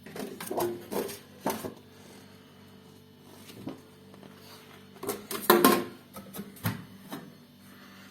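Knocks and clatters of refrigerator parts being handled, in two bursts, over a steady low hum.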